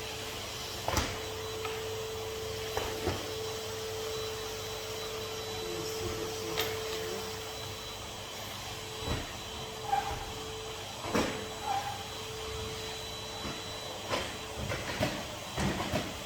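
Henry HVR200 620 W canister vacuum cleaner running steadily with a constant motor hum, while irregular sharp knocks sound now and then.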